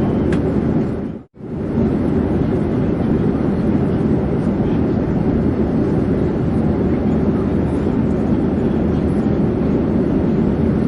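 Airplane in flight: a steady, low drone of engine and air noise. About a second in it cuts out for an instant and comes straight back, as at the join of a looped recording.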